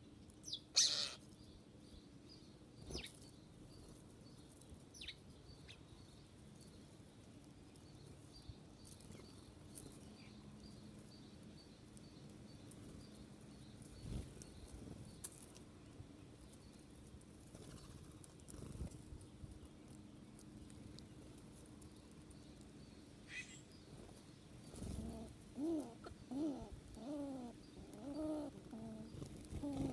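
Wild birds at a feeder: a sharp flutter about a second in, then scattered faint chirps and clicks. In the last few seconds a dove gives a run of low, repeated cooing notes.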